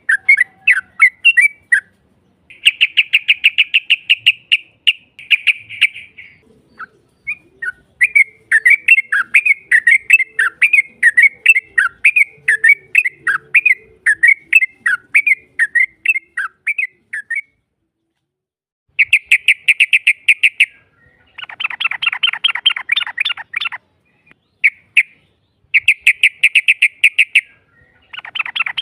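Yellow-vented bulbul (trucukan) song: bouts of rapid chattering notes and fast rolling trills, broken by short pauses.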